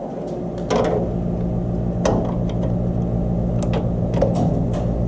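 A steady low mechanical hum starts at the beginning, with scattered clicks and clanks of tools on metal.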